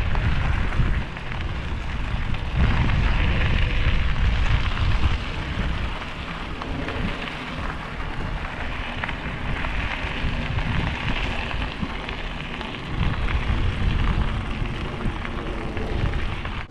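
Wind buffeting the microphone of a camera carried on a moving bicycle: a rough, dense rush heaviest in the low end, swelling louder twice.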